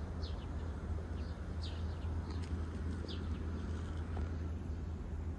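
Small birds chirping in short, quickly falling notes, about half a dozen scattered through, over a steady low background rumble.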